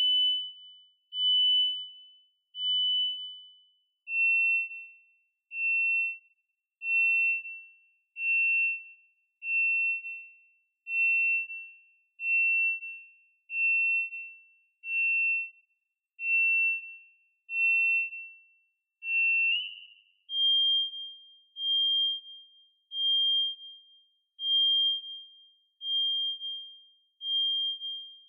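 Esoteric Synth iOS app's 'Simple Birds' patch, two oscillators with random control of frequency, playing a regular string of short, high, bird-like electronic chirps, about one every second and a half. Each chirp starts sharply and fades. The pitch steps down a little about four seconds in and up a little about two-thirds of the way through.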